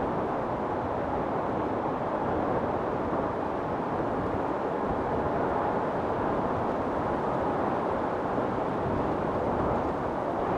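Wind storm: strong wind blowing steadily as a dense, even rushing noise.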